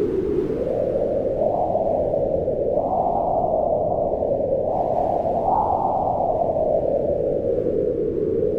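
Wind blowing in slow gusts, a deep rushing noise that swells and eases every few seconds, strongest around the middle.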